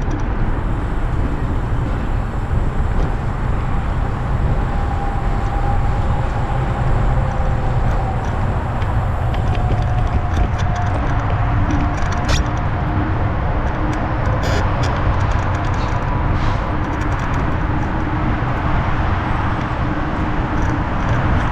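Steady wind rumble on the microphone with tyre and road noise from a bicycle being ridden, and a few light clicks and rattles past the middle.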